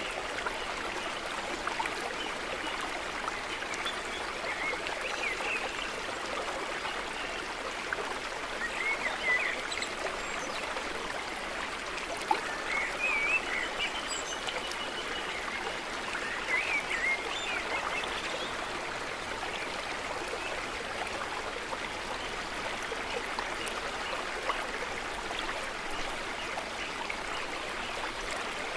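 Stream water running steadily. Short bird calls or song phrases come through about four times in the first two-thirds.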